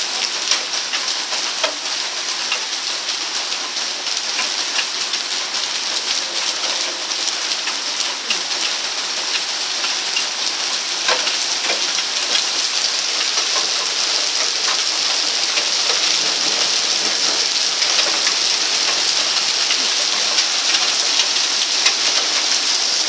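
Heavy rain pouring down, a dense even hiss with scattered sharper drop hits, growing a little louder over the second half.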